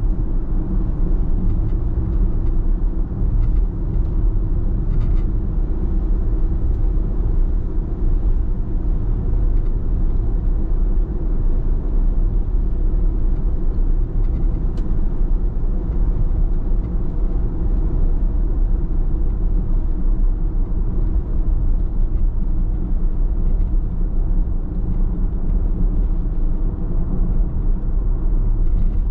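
Car driving at a steady speed: an even low rumble of road and engine noise.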